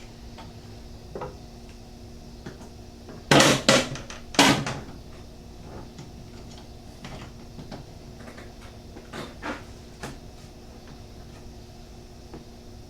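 Hard plastic-and-metal clacks and knocks of motorcycle parts being handled, three loud ones close together about three to four and a half seconds in, then a few lighter clicks, over a steady low hum.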